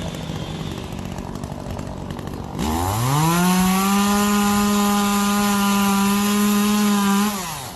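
Two-stroke chainsaw throttled up from idle about two and a half seconds in, held at a steady high speed for about four seconds, then let back down to idle near the end.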